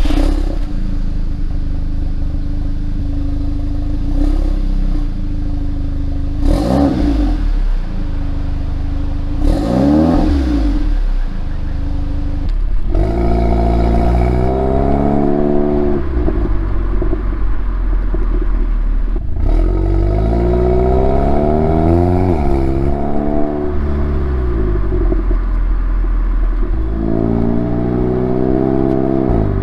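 Audi A3 2.0T turbocharged four-cylinder through an APR downpipe and Milltek non-resonated catback exhaust, idling, then revved: two quick blips, then three longer revs that climb, hold and drop back.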